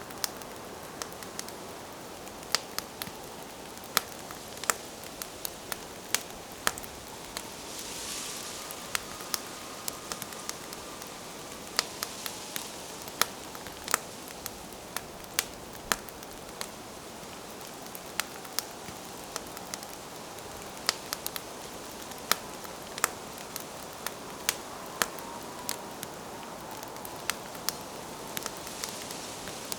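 Wood campfire crackling, with many sharp irregular pops and snaps over a steady hiss.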